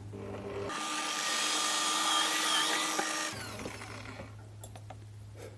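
Electric drill running and boring a hole through wooden knife handle scales; it is loudest for about two and a half seconds in the middle, then eases off and fades.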